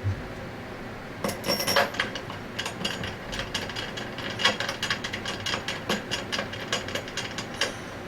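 Rapid, irregular metallic clicking and clacking of tools and press fixtures being handled and fitted, starting about a second in.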